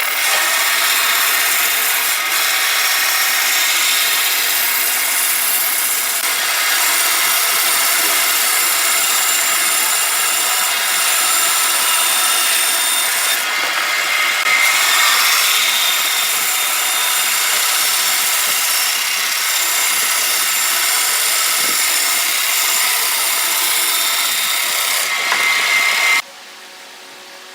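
Woodturning lathe with a tool cutting into the spinning wood, a steady rasping, shaving noise. It cuts off suddenly near the end, leaving a much fainter steady hum.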